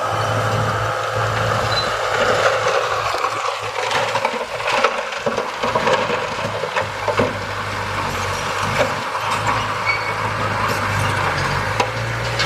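Heavy earth-moving machinery running, with its engine holding a steady low hum under irregular clattering and scraping of soil and stones.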